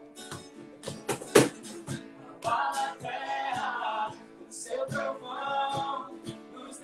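Live worship band music: singers over instruments with a steady beat, the voices coming in about two and a half seconds in, and a sharp knock about a second and a half in.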